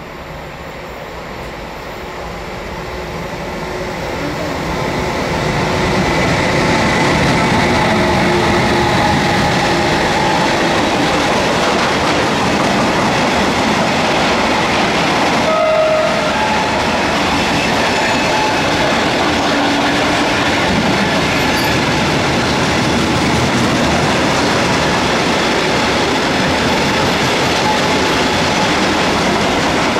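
Freight train of open wagons hauled by an electric locomotive passing close by. The noise of wheels on rail grows over the first few seconds, then holds steady and loud as the wagons roll past. A short pitched tone sounds about halfway through.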